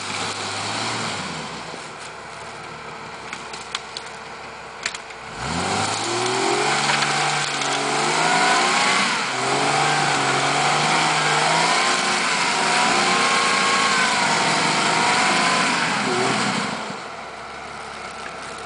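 Built Jeep Cherokee XJ's engine revving hard under load on a rock climb, its pitch rising and falling over and over for about ten seconds before easing off near the end. For the first few seconds the engine drops back to a low run, with a few sharp clicks.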